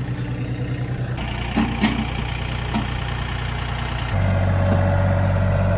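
John Deere tractor's diesel engine running steadily, rising in speed about a second in and getting louder again about four seconds in as it is worked. A few short knocks come through around the two-second mark.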